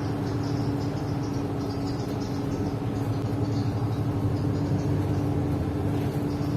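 City bus heard from inside the cabin while riding: a steady engine drone with a constant hum, and faint light rattling now and then.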